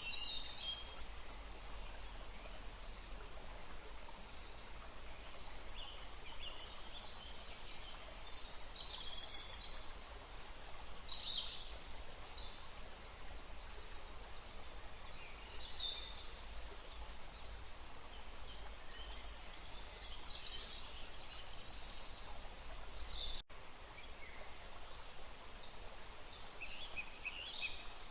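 Birds calling and chirping at irregular intervals over a steady background hiss of wind in the trees and running water, with a low rumble underneath. A momentary dropout in the sound comes about three quarters of the way through.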